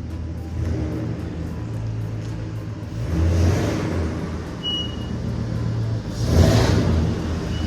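LS-swapped box Chevy V8 idling through its new exhaust and blipped twice, about three seconds in and again about six seconds in.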